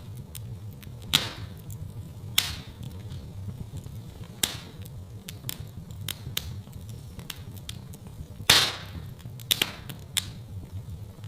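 Fire crackling in a fireplace: sharp pops and snaps every second or so over a low steady rumble, the loudest pop about eight and a half seconds in.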